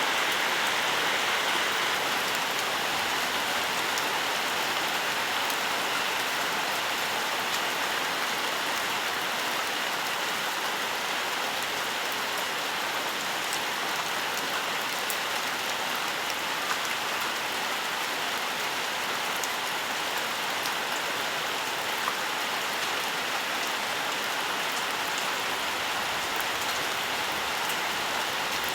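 Steady rain: an even hiss with faint, scattered ticks of single drops striking.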